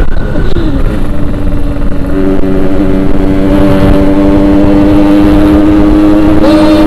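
Yamaha RX-King 135cc two-stroke single-cylinder motorcycle engine running at steady riding revs. Its pitch drops briefly about half a second in, then holds steady.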